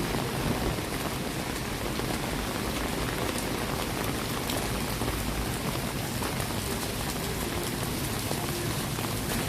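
Steady rain falling, a dense even hiss dotted with many small drop hits.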